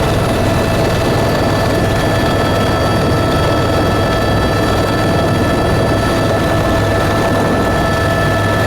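Tour aircraft engine noise, steady and loud, with a few constant high whining tones over a low drone.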